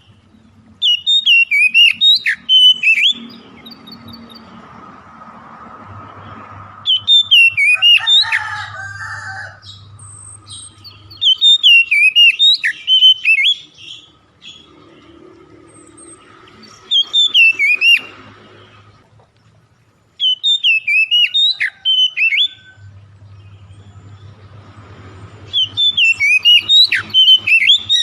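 Songbird song in about six loud bursts of rapid, sweeping whistled notes, each one to three seconds long with short pauses between. It is played as a lure recording to set caged birds singing.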